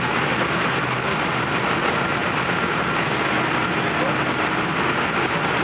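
Steady running noise of a Hokuhoku Line electric railcar, heard from inside the passenger car as it travels through a tunnel, with a faint scatter of high ticks over the rumble.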